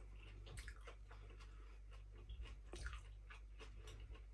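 Faint chewing of a bite of bread pizza: soft, irregular clicks and crunches over a low steady hum.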